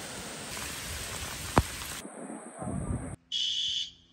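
Rain and wind hiss from a hurricane downpour for the first two seconds. Near the end comes a loud, high electronic alarm beep, like a smoke alarm, lasting under a second.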